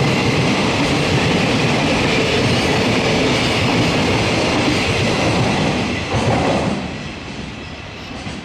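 Freight train's container wagons rolling past on the rails, a steady rumble and clatter of steel wheels. It fades in the last couple of seconds as the train moves away.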